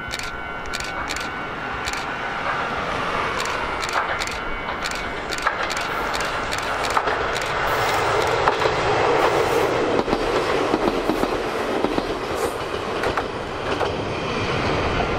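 Ichibata Electric Railway 5000 series electric train running past, with its wheels clicking over the rail joints. It grows louder as it approaches, is loudest about eight to ten seconds in as it goes by, then fades away.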